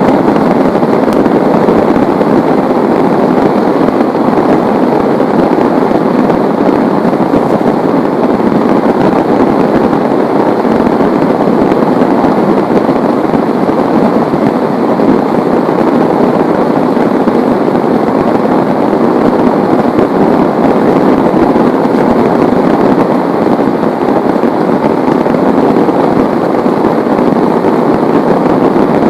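Heavy rain pouring down in a loud, steady, dense hiss with no breaks.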